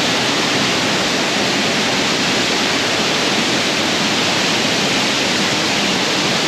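Mae Sa waterfall's water falling and splashing, a loud, even, unbroken rush.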